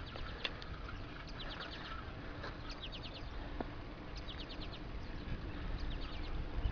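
A songbird singing a short phrase of four or five quick high notes, repeated about every second and a half, over a steady background hiss.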